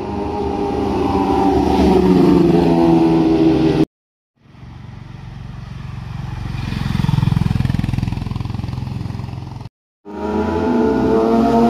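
Motorcycles passing one at a time in three short clips cut hard together. Each engine swells as it approaches and drops in pitch as it goes by; the middle pass is lower and rougher.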